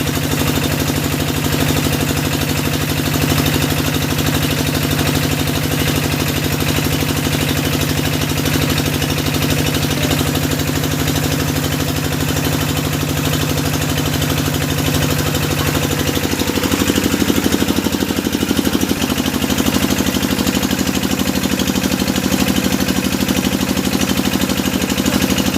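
Engine of a hydraulic deep-well drilling rig running steadily, its note changing about sixteen seconds in as the load shifts.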